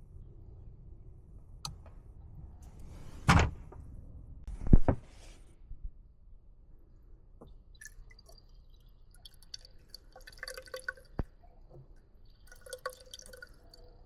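Handling noises from the technician's equipment: a few sharp knocks in the first five seconds, then a run of light clicks and rattles.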